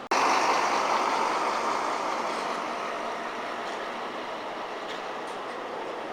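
Articulated bus running on the road: a steady noisy rumble that starts abruptly, loudest for the first two seconds or so, then settling to an even level.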